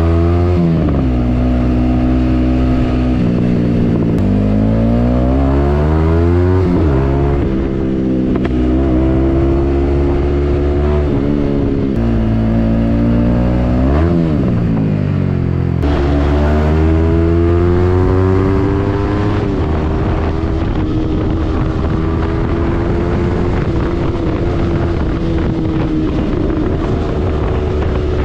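Yamaha MT-15's single-cylinder engine through a Yoshimura aftermarket exhaust, riding through the gears: the engine pitch climbs and drops at each shift, with a quick rev up and back down about fourteen seconds in. It then settles to a steadier pitch for the last third.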